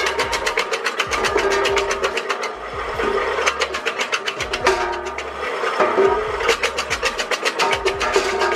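Homemade electric branch chopper running, its motor humming under a fast, even mechanical clatter that falters briefly a couple of times. Background music plays underneath.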